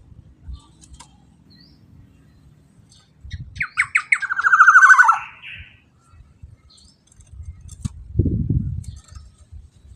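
Black-naped oriole calling once, about halfway through: a few short notes, then a long rasping, pulsing note. Low rumbling thuds come just before the call and again near the end.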